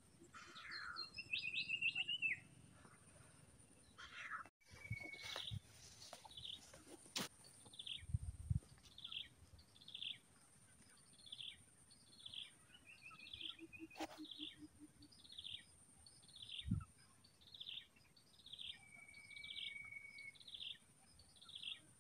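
A bird repeating a short, high, dropping call a little more than once a second, after a brief trill near the start. Underneath runs a steady thin high tone, with a few faint clicks and knocks.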